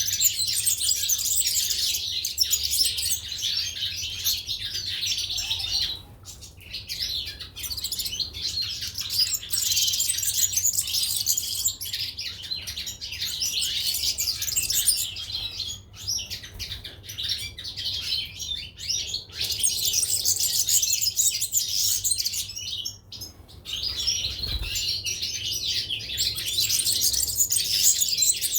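A group of goldfinches and canaries chirping and twittering busily, with dense overlapping high calls and a few short lulls.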